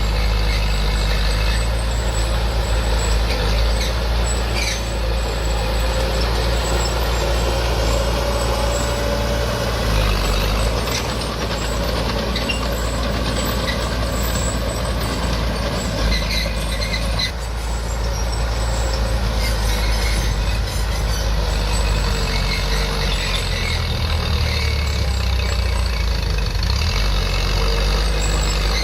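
Diesel engine of heavy earthmoving machinery working steadily, its pitch rising and falling a few times as it takes load, with occasional clanks.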